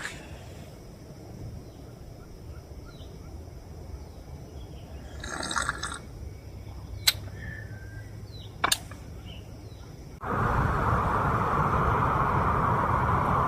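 Water dripping, with a few sharp taps, then about ten seconds in a loud, steady hiss of heavy rain begins abruptly.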